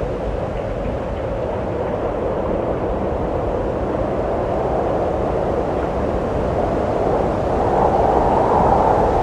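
Wind blowing steadily as a low rushing noise, growing a little stronger near the end.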